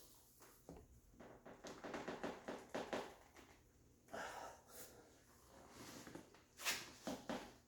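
Faint creaks, clicks and short scrapes as a conduit bender is levered against the bent steel frame of a Jeep soft-top door to pull it back into shape. The clicks come thickest about two seconds in, with brief scrapes later.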